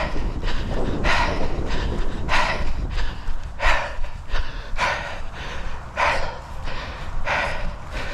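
A person breathing hard while running, with a strong, even exhale about every second and a quarter.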